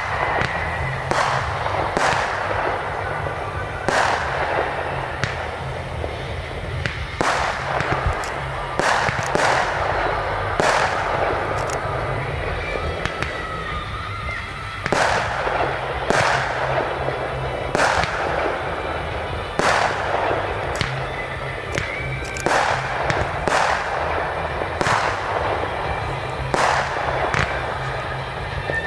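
Fireworks display: aerial shells bursting in a steady run of sharp bangs, one every one to two seconds, with crackling between them.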